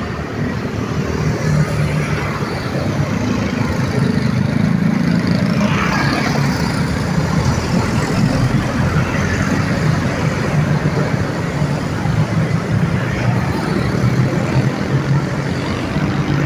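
Busy road traffic: a steady mix of vehicle engines and tyre noise as cars, trucks and motorbikes pass.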